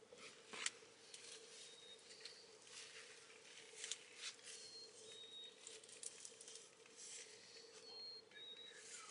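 Faint rustling and scratching, a string of small clicks, with a few short high bird notes and a steady low hum underneath.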